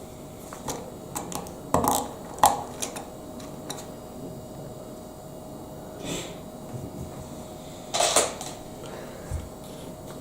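Plastic Lego Technic pieces clicking and clattering as they are handled and snapped together: a run of sharp clicks in the first few seconds, a quieter stretch, then another burst of clatter about eight seconds in. A faint steady hum underneath.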